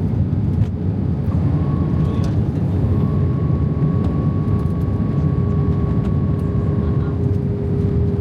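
Airbus A320 jet engine noise heard from inside the cabin: a steady loud rumble with a steady whine, and a higher whine that comes in about a second and a half in and stops about a second before the end.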